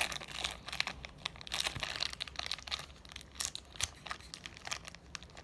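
Slime being pressed and handled in its plastic container, making dense, irregular crinkling clicks and crackles.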